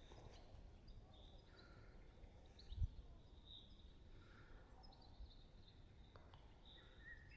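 Quiet outdoor ambience with faint, scattered bird chirps and one soft low thump about three seconds in.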